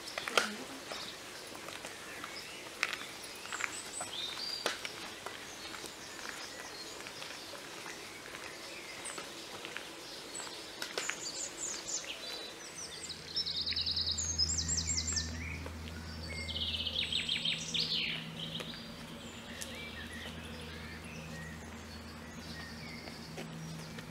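Songbirds singing, a mix of short chirps and fast rattling trills that are busiest in the middle. A low steady hum comes in about halfway and runs on beneath them.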